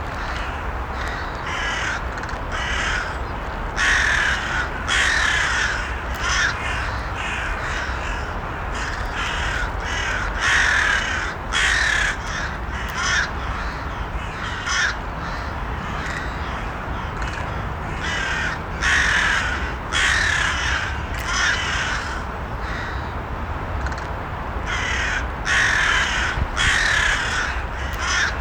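Crows cawing over and over, the calls coming every second or two. Underneath is a steady low background noise.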